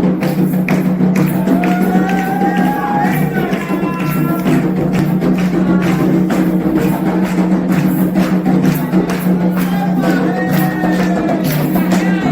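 Candomblé ritual music: atabaque hand drums and other percussion beating a fast, steady rhythm, with group chanting.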